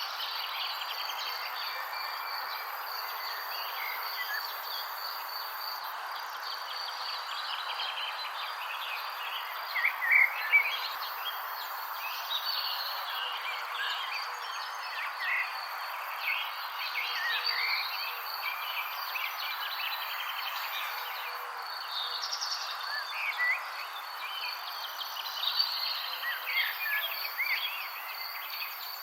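Nature ambience: a steady high insect trill over an even hiss, with many birds chirping throughout, busiest about ten seconds in and again near the end.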